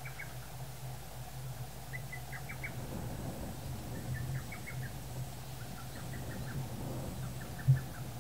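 A small songbird singing short phrases of four to six quick notes, repeated about every two seconds, over a steady low hum. A single low thump near the end is the loudest sound.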